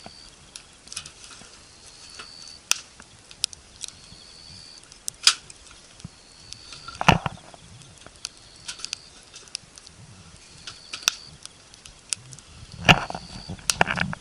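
Irregular knocks and clicks of objects being handled, the loudest about five, seven and thirteen seconds in. Throughout, a faint short high note, rising slightly, repeats every two seconds or so.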